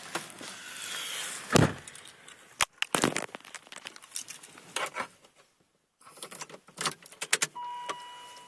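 A bunch of keys jangling and clicking, with a knock about a second and a half in. Near the end a steady electronic warning tone from the truck's dash starts up, broken by short gaps, as the ignition is switched on.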